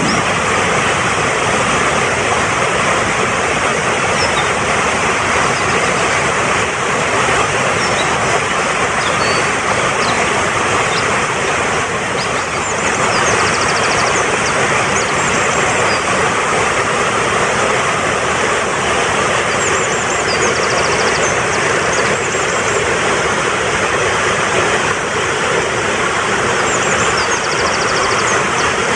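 Fast-flowing mountain stream rushing steadily, with short high bird chirps and trills breaking in every few seconds above the water.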